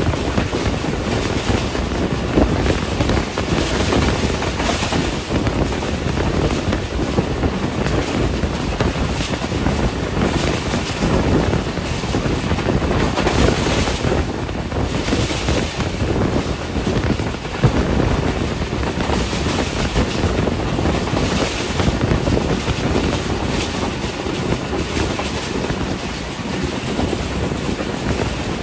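A passenger train running at speed: the steady rumble and clatter of coach wheels on the rails, with wind rushing past an open window.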